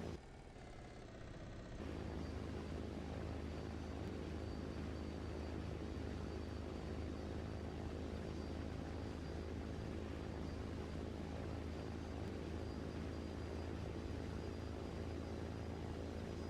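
Steady low mechanical drone, like a running engine, with a drop in level for about the first two seconds before it returns.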